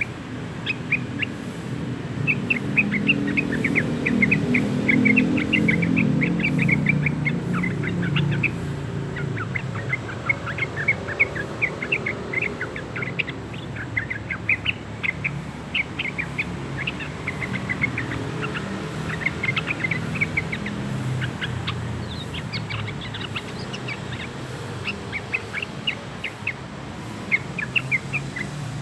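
Juvenile yellow-vented bulbul (trucukan) twittering in a long run of quick, short chirps: the rambling practice song of a two-month-old bird learning to sing. A low rumble runs underneath, heaviest in the first third.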